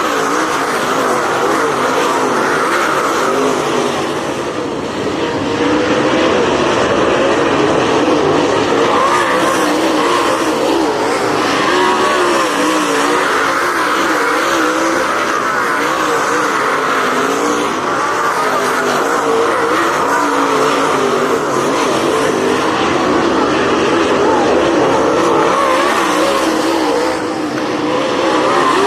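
Several race car engines running hard together, their pitches constantly rising and falling as the cars accelerate and lift. The sound eases briefly about four seconds in and again near the end.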